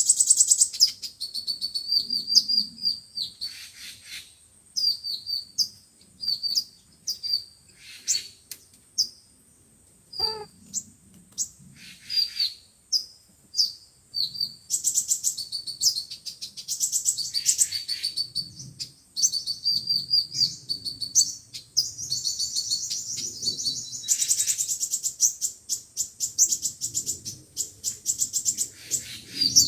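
Sunbirds singing: rapid, high-pitched chirps and twittering trills in quick, repeated phrases, a sunbird call recording of the kind played through a speaker to lure the birds.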